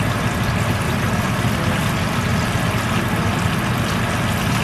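Fish frying in hot oil: a steady sizzle over a low rumble, unbroken throughout.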